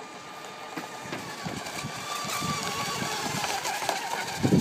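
Small motor of a remote-controlled boat whining steadily, growing louder as it runs, with a slight dip in pitch past the middle. A loud low rumble comes in right at the end.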